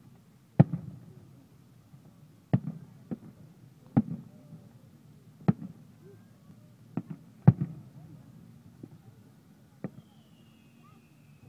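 Fireworks going off in a series of about eight sharp bangs at irregular intervals, each trailed by a brief low rumble. A faint falling whistle comes near the end.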